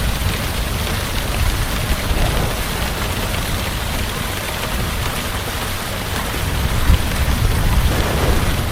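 Heavy rain pouring steadily, with a deep low rumble underneath that swells and fades.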